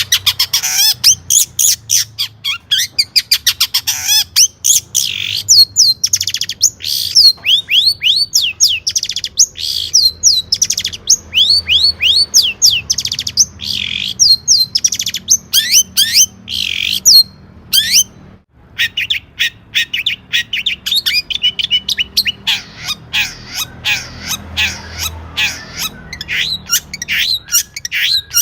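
Long-tailed shrike (cendet) singing a fast, continuous medley of short chirps, harsh notes and sweeping whistles, packed with imitations of other birds' songs. The song breaks off for a moment about two-thirds of the way through.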